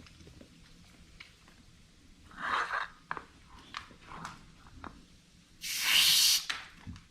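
Aerosol whipped cream can spraying: a short hiss, then a louder hiss lasting about a second near the end, with small clicks and smacks in between.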